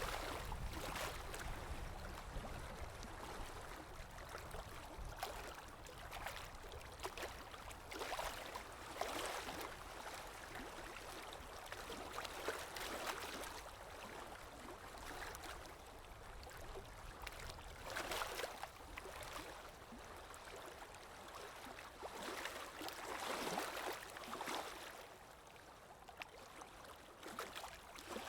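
Water lapping in small waves, with wind: soft splashing swells every few seconds over a steady hiss, and a low wind rumble that eases off about halfway through.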